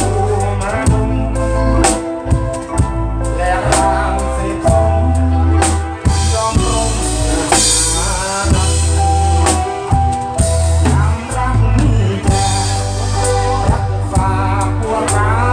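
Live band music: a drum kit with heavy bass drum and snare hits over a bass line, with a melodic lead on top and no singing.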